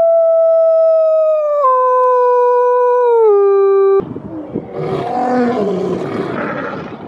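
A wolf howling: one long, clear howl that steps down in pitch twice and cuts off sharply about four seconds in. It is followed by a lion's rough, noisy calls.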